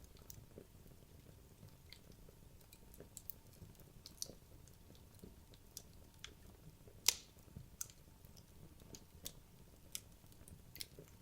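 Wood logs burning in a fireplace, crackling with irregular sharp pops, the loudest about seven seconds in, over a faint low rush.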